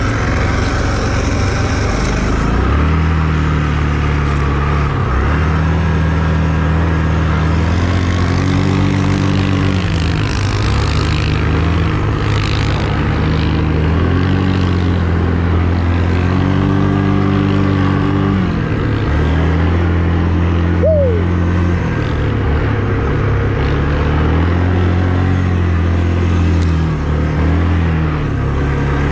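A vehicle engine running continuously, its pitch stepping up and holding, then dropping back, over and over as the engine speed changes. About two-thirds of the way through there is a brief falling squeal.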